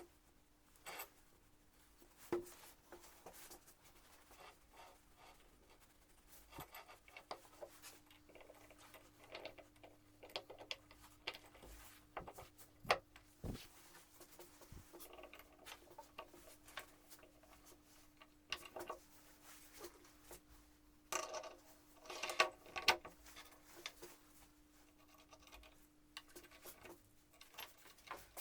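Faint scratching and scattered light knocks and clicks, busiest about three quarters of the way through, over a steady low hum.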